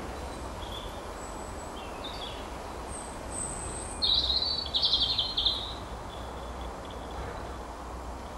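Songbirds singing: a few short chirps and thin high whistles, then a louder, rapid run of repeated notes about four seconds in that lasts around a second and a half, over steady outdoor background noise with a low rumble.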